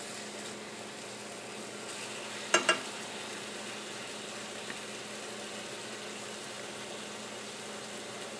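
Chicken pieces sizzling gently in a nonstick frying pan over low heat, a steady faint frying hiss. Two sharp knocks come close together about two and a half seconds in.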